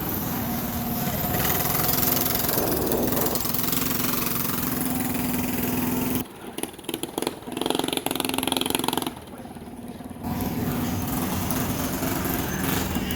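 A motor vehicle engine running steadily amid outdoor noise, with a low hum underneath. The sound drops away abruptly about six seconds in and comes back about four seconds later.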